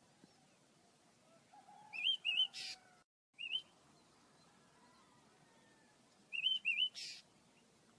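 Pet birds chirping: short up-and-down chirps in quick pairs, a few times, each pair followed by a brief hissy rasp.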